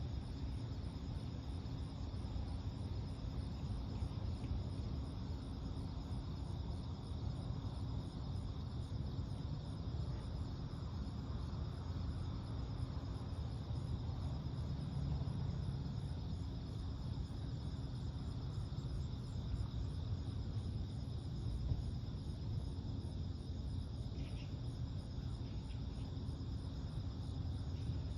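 Steady chorus of night insects, an even fast-pulsing trill, over a low steady rumble of background noise.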